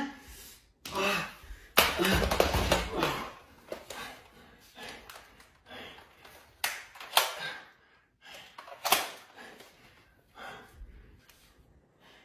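Several sharp snaps and thuds a few seconds apart, with rustling between them: toy foam-dart blasters firing and darts striking.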